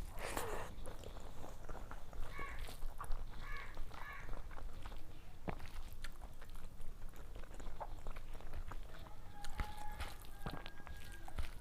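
Close-up eating sounds: chewing and mouth noises with scattered small clicks and crackles, and a louder burst of crackling right at the start.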